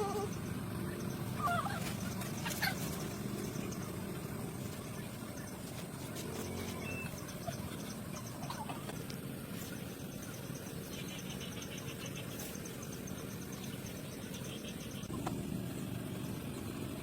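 A few short calls from poultry, scattered over a steady low background noise. A faint, fast, high ticking comes in during the second half.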